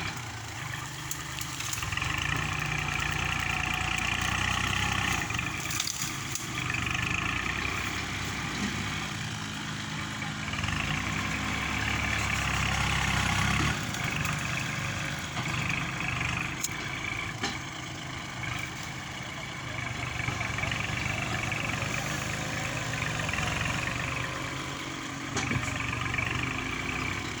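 Heavy diesel engine of earth-moving machinery running and working, its pitch and load shifting. A steadier low drone in the middle stops abruptly, with a higher clattering, whining layer over it throughout.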